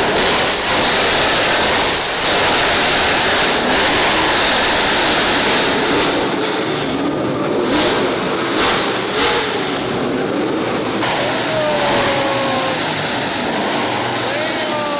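Several car engines revving loudly together inside a parking garage at a car meet, with a few sharp cracks between about six and nine seconds in and a couple of short squeals near the end.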